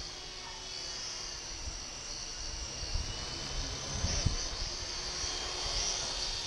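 WLtoys V912 RC helicopters in flight, their small electric motors and rotors giving a steady, high-pitched whine, with a couple of low bumps about three and four seconds in.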